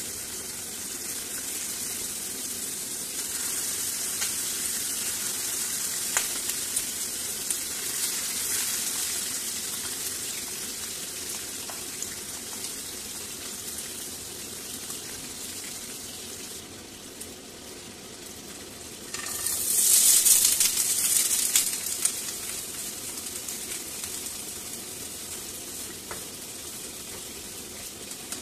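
Chicken pieces frying in hot oil in a nonstick frying pan: a steady sizzle with frequent spits and crackles. About two-thirds of the way through, the sizzle swells sharply for about two seconds.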